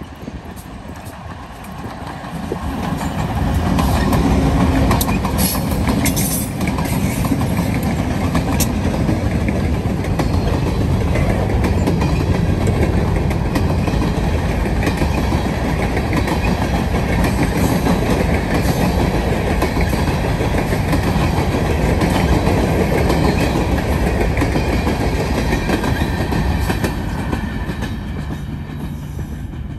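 Freight train passing close by: the diesel locomotives' rumble builds over the first few seconds as they approach and go by. Then a long string of steel hopper cars rolls past with steady wheel rumble and clickety-clack on the rail joints, easing slightly near the end.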